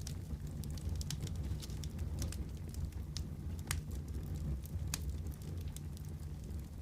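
Wood fire burning in a fireplace: a steady low rumble of flames with frequent sharp crackles and pops at irregular intervals, several of them louder.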